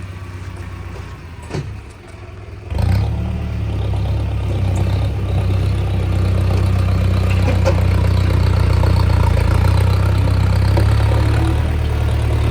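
A tractor's diesel engine running; a little under three seconds in it picks up sharply to a loud, steady, low engine note that builds slightly and holds.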